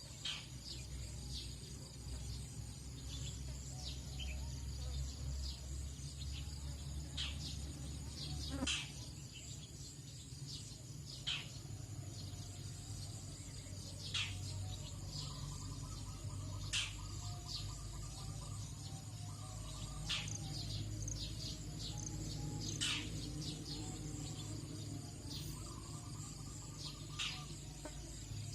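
Tropical dawn chorus: a steady high insect drone with many short bird chirps and calls scattered throughout, and a couple of brief rapid trills about halfway and near the end, over a steady low hum.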